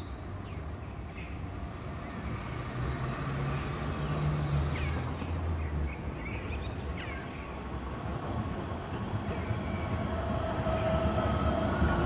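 Electric street tram running on its rails: a steady low rumble with a few sharp clicks, and a whine that rises over the last few seconds.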